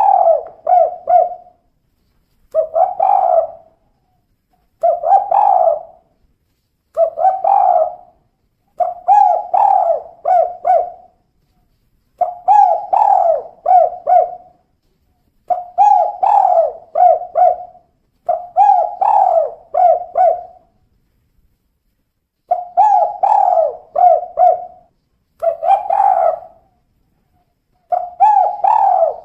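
Female spotted dove (tekukur) cooing in the 'kuk 2' style: short phrases of several quick coos, repeated about every two seconds with silence between.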